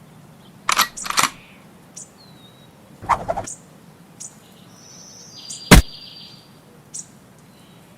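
A few short, sudden noises with brief high chirps in between. The loudest is a single sharp crack a little before six seconds in.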